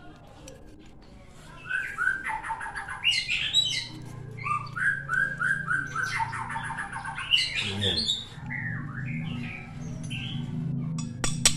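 A songbird chirping in quick runs of short whistled notes, most of them between about two and eight seconds in. A low steady hum comes in underneath about eight seconds in, and there are a couple of sharp clicks near the end.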